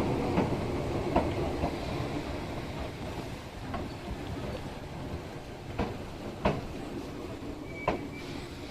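Izu Kyuko 8000 series electric train running and slowing, its rumble fading away, with a few sharp knocks and clicks and a brief short squeal near the end.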